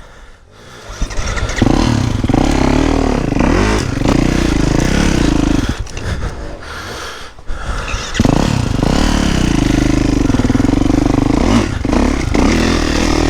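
450cc four-stroke motocross bike engine being ridden: after a quiet first second it revs up, then the revs rise and fall with the throttle, drop away for a couple of seconds in the middle and climb sharply again a little after halfway.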